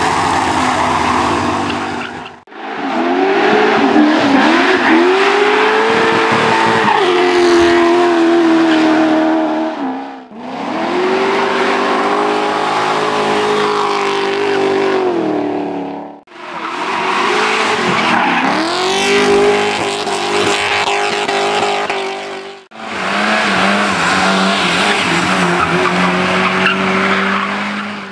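Drift cars running hard on a hill drift course, engines revving up and down with tyre squeal as they slide through corners. The sound cuts abruptly four times between separate passes.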